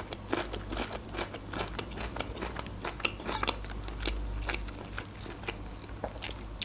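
Close-up chewing of a crunchy pickled gherkin: a steady run of small crisp crunches.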